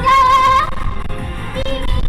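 Female pop vocals singing held notes over a backing track, with low wind rumble on the microphone.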